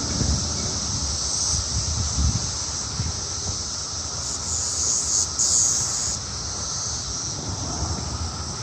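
Chorus of Brood X periodical cicadas: a steady, high-pitched hissing drone that swells a little about four to six seconds in, with a low rumble underneath.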